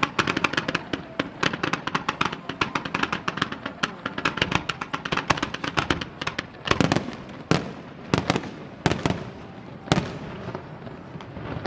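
Aerial fireworks going off: a rapid crackling barrage of many small sharp reports, then, about halfway through, slower and louder single bangs roughly once a second.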